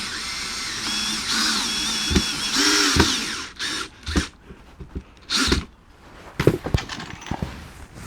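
Power drill driving screws into wood, its motor pitch rising and dipping under load, stopping about three and a half seconds in. A few short knocks and clicks of handling follow.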